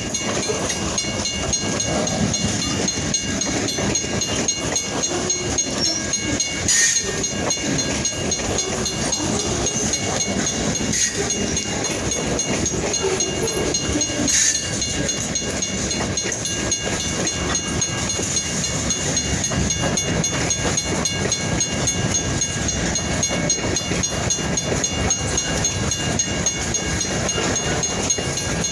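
Freight train rolling past: a steady rumble and clatter of wheels over the rails, with two sharper clanks about 7 and 14 seconds in. A steady thin high ringing runs over it.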